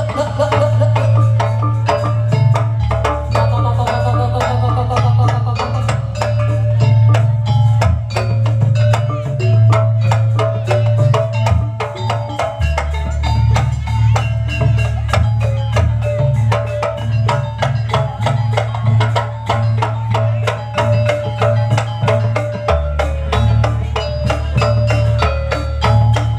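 Jaranan kuda lumping ensemble music, loud and amplified: drums and gamelan mallet percussion playing a fast, steady rhythm over sustained pitched notes, with a wavering melodic line in the first few seconds.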